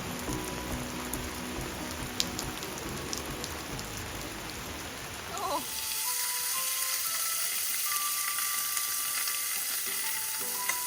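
Steady rain pattering, with a few sharp drips. About halfway through it gives way abruptly to loud sizzling: food frying on a very hot pan, which the cook soon says was heated too much.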